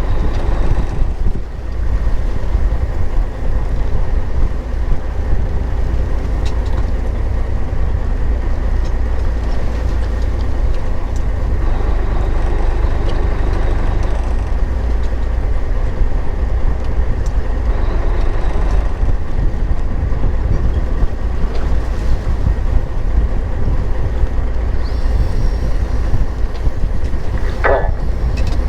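Fishing boat at sea: a steady low engine rumble mixed with wind and water noise.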